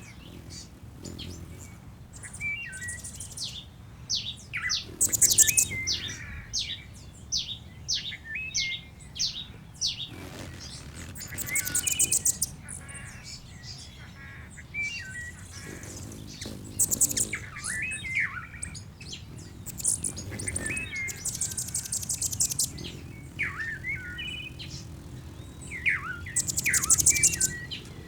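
Several small birds chirping and calling over one another, with short whistled notes and a high, rapid trill that comes back every few seconds.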